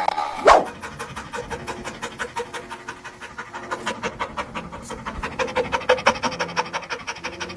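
A dog panting rapidly, about five quick breaths a second, after a brief loud falling tone about half a second in.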